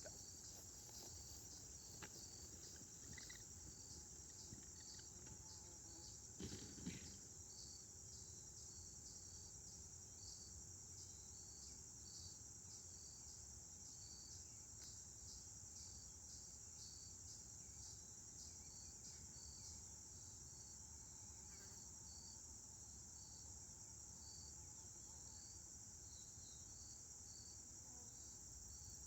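Faint insect chorus: a steady high-pitched drone with crickets chirping in a regular pulse about twice a second. A brief soft thump about six to seven seconds in.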